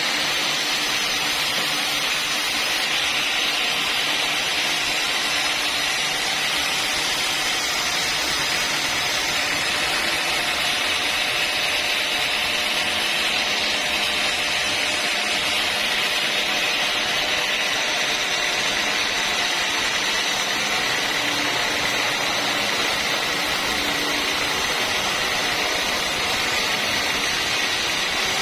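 Sawmill saw running steadily: a continuous, even machine noise that holds the same level throughout.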